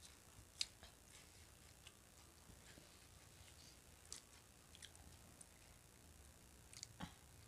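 Near silence with faint chewing and a few scattered small mouth clicks as people eat, the sharpest click about half a second in.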